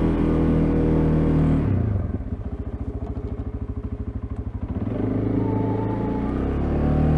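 CFMoto CForce ATV's single-cylinder engine running on throttle while snowplowing. It drops to a slow, pulsing idle about two seconds in, then revs back up about three seconds later.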